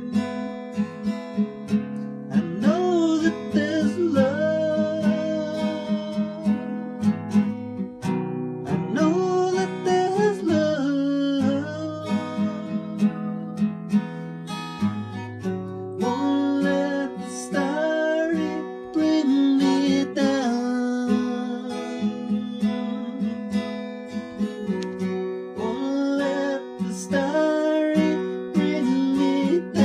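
Acoustic guitar strummed in a steady rhythm. Over it a voice sings a melody in several phrases with no clear words.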